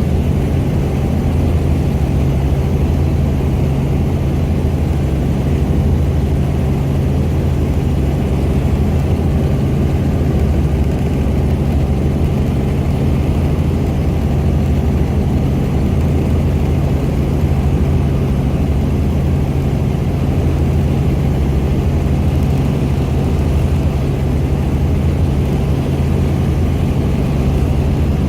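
Helicopter in flight heard from inside the cabin: a loud, steady drone of rotor and engine with a deep hum.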